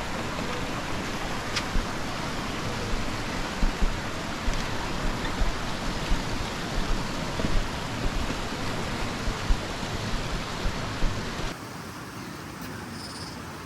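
Waterfall rushing: a steady wash of falling water, with wind thumping on the microphone. It drops suddenly to a much quieter background near the end.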